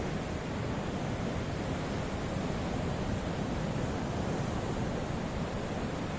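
Ocean surf: a steady wash of waves with a low, even rush and no distinct breakers.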